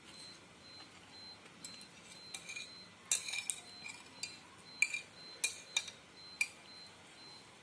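Spoon and fork clinking and scraping against a noodle bowl while eating chicken noodle and meatball soup: a scatter of sharp, irregular clinks, busiest a few seconds in.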